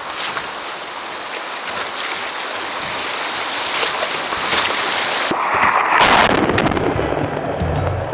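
Rushing whitewater and splashing as a kayak runs a riffle. The sound changes abruptly about five seconds in, with a loud burst of splashing and then low steady tones.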